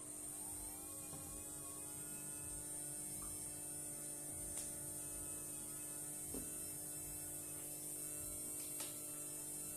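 Small electric motor of a toy washing machine switching on, rising in pitch over the first second, then running with a steady hum and a few faint clicks.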